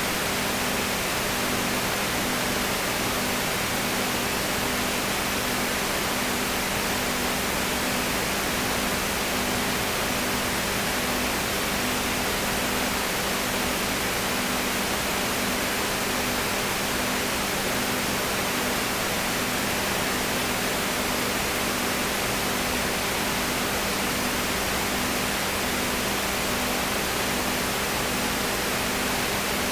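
Steady hiss across the whole range with a low electrical hum under it, one hum tone pulsing about once a second; no other event stands out.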